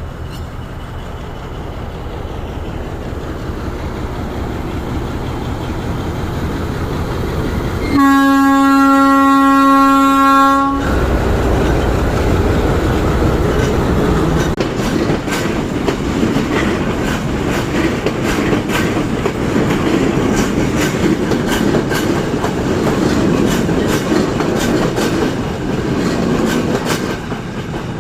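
A train approaching with a growing rumble, then sounding one long, steady horn blast of about three seconds. It then passes close by with a loud rumble and rhythmic clickety-clack of its wheels over the rail joints.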